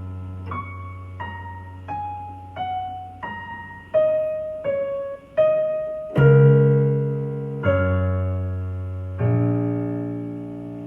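Piano playing a slow melody of single notes over a held low bass note, then three sustained chords about a second and a half apart.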